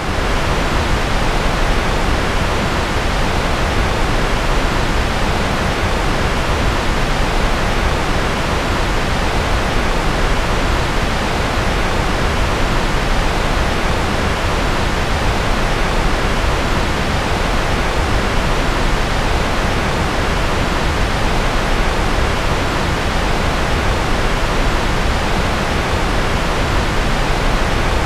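Generated white noise: a steady, even hiss that never changes, fuller in the low end than at the top.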